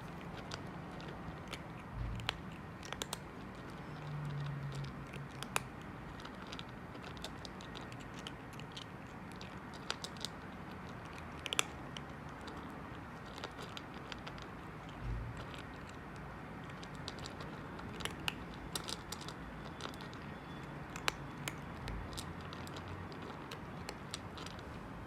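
Calico cat eating, chewing with many irregular small clicks and crunches, with a few soft low thumps.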